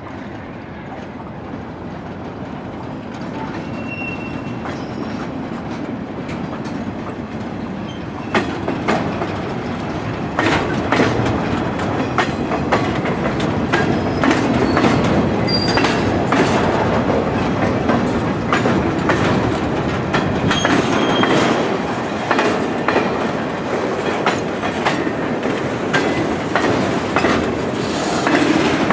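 Train cars rolling past, the wheels clacking over rail joints and switches in dense, irregular clicks, with a few brief high wheel squeals. The sound grows louder over the first ten seconds as the train draws near.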